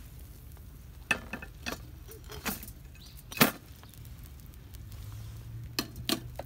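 Sporadic sharp clicks and knocks at a campfire, about six in all, the loudest a little past the middle. A low steady hum comes in about five seconds in.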